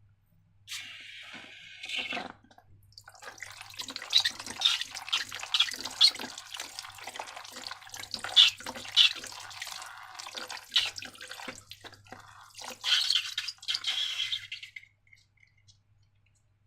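Slime being squeezed and worked by hand, making a run of irregular wet, sticky squelches and small clicks.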